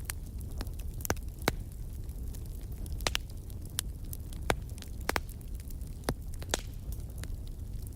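Wood fire in a fireplace crackling: irregular sharp pops, some louder than others, over a steady low rumble.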